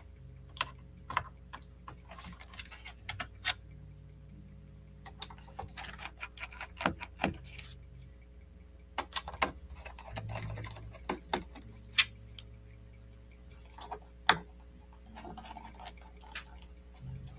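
Irregular light clicks and taps of a small screwdriver working the tiny bottom-case screws of a 2010 MacBook Pro, with the small screws being set down on a work surface. A faint steady hum runs underneath.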